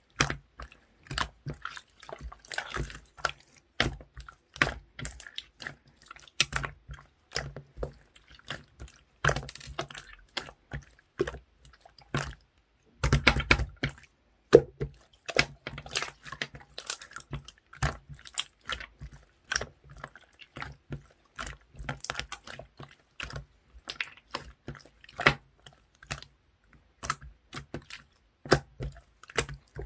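Clear slime with ice-cube parts mixed in, squeezed and poked by hand, giving irregular wet clicks, pops and crackles. A longer, louder squish comes about 13 seconds in.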